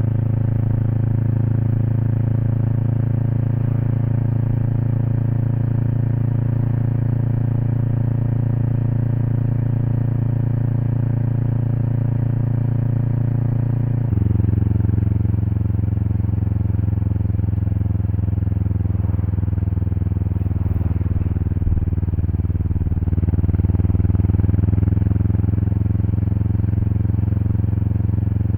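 Kawasaki Eliminator SE's 398 cc parallel-twin engine running steadily under way, heard through a BEAMS aftermarket header pipe and muffler close to the exhaust. The engine note changes suddenly about halfway through and gets a little louder some seconds later.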